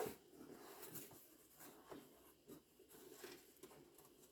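Near silence with faint scratching and a few soft ticks of small handling noise.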